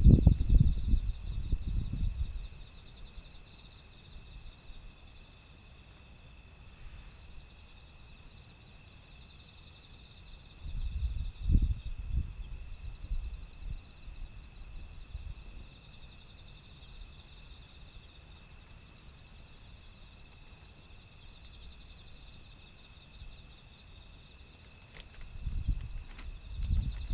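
Crickets chirping in steady, pulsing trills. Short low rumbles break in at the start, about eleven seconds in, and again near the end.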